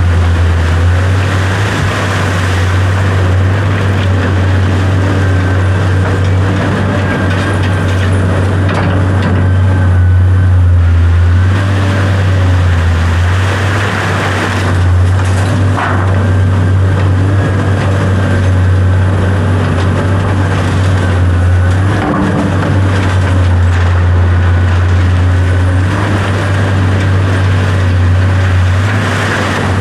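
A large engine, typical of heavy equipment or a truck, running steadily with a constant low hum, with fainter whining tones above it that step up and down in pitch.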